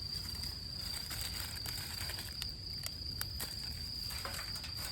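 A steady, high, single-pitched insect trill runs throughout. Scattered sharp clicks and rustling come through it as wet dead leaves and twigs are handled.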